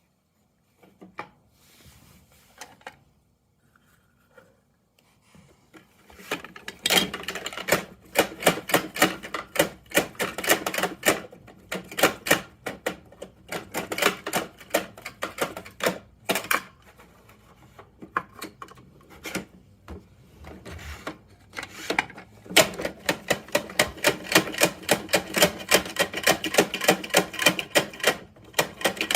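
Plastic clicking from a toy Bruder Mack garbage truck being worked by hand: a few scattered clicks, then from about six seconds in long runs of sharp clicks, about three to four a second, pausing briefly twice.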